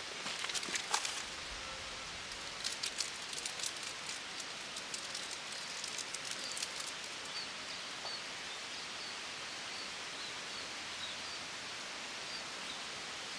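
Steady outdoor hiss with a run of dry rustling crackles in the first half, then faint, high, short chirps repeating every second or so.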